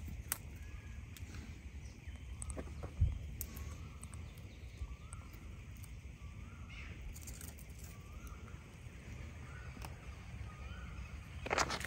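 A bird calling over and over, a short rising-and-falling note about once a second. Around it are a few sharp clicks, a thump about three seconds in and a louder rustling burst near the end.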